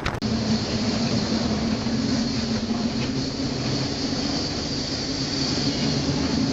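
Steady machinery drone of a ship's engines heard aboard, with a low hum and a faint high whine over a constant rumble.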